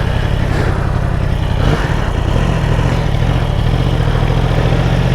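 Sportbike engine running steadily while riding, with a brief break in the engine note about a second and a half in.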